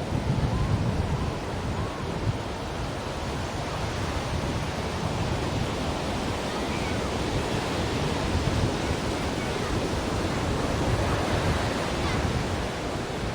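Ocean surf washing ashore as a steady, continuous rush of waves, with a deep rumble underneath.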